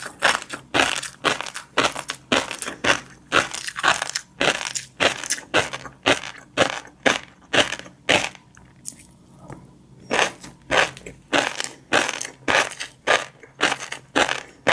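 Close-miked chewing of fish roe: the eggs crunch and pop between the teeth in quick, regular bites of about three a second, with a short pause just past halfway.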